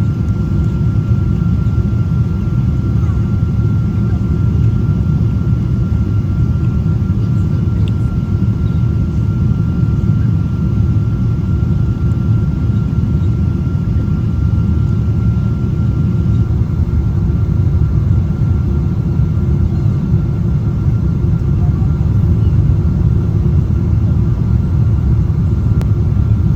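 Boeing 777 cabin noise on the landing approach: a steady low rumble of engines and airflow with a faint, steady high whine over it.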